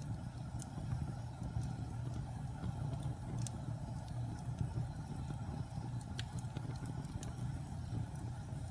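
Fire burning in a fireplace: a steady low rumble with scattered sharp crackles and pops at irregular moments.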